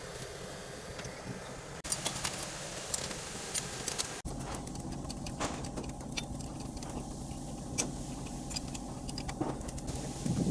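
A machine running with a steady low hum, with scattered sharp metallic clinks and taps, like tools on metal.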